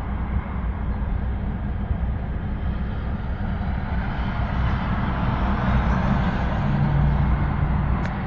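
Steady road and engine noise of a car travelling along a highway, with a low hum that swells a little past the middle.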